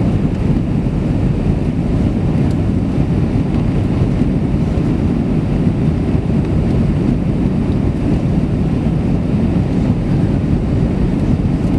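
Steady low rumble and rushing noise inside the cabin of an Airbus A320 during its landing at Zurich, with no distinct knocks or changes.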